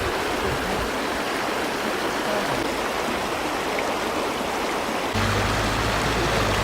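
Steady rushing of fast-flowing water, a glacial stream or waterfall. About five seconds in, a low hum joins it.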